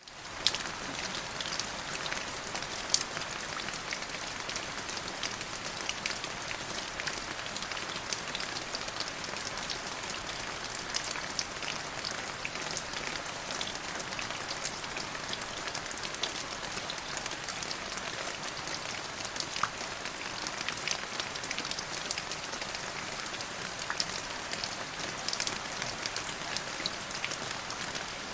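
Steady rain falling, with many separate drop hits over an even hiss. It rises in from silence at the very start, then holds level.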